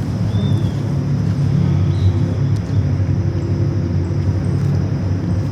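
Steady low outdoor rumble, with a short high chirp about half a second in and another about two seconds in.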